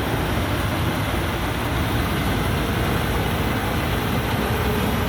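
A 260-horsepower Amnuay Kan Chang rice combine harvester running steadily as it harvests, its engine and machinery making an even, continuous noise.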